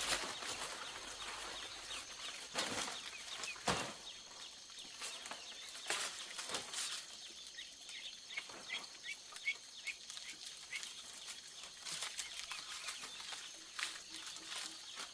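Scattered knocks and clatters, like work on bamboo, with a run of short, high bird chirps about halfway through.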